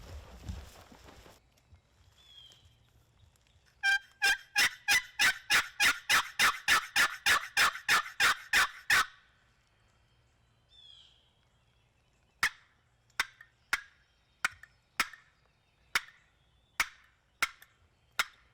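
Turkey call sounding hen yelps: a long, even run of about three yelps a second for some five seconds, then after a pause a slower series of about ten sharper yelps. Calling meant to get gobblers to answer.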